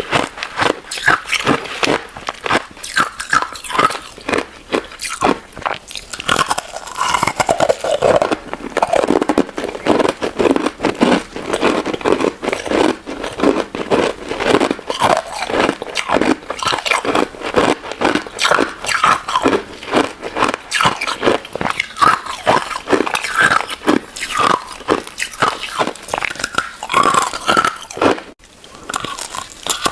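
Close-miked crunching and chewing of a crunchy crystal ice and jelly dessert, with quick crisp bites and crunches several times a second, and a short pause a little before the end.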